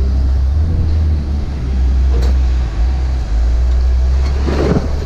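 Car running, a steady low drone, with a faint click about two seconds in and a short clatter near the end.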